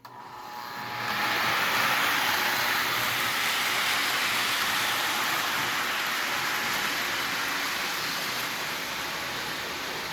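Lionel 2338 GP-7 model diesel locomotive and its passenger cars running on the layout track: a steady whirring noise of wheels and motor that rises over the first second or so and eases slightly toward the end.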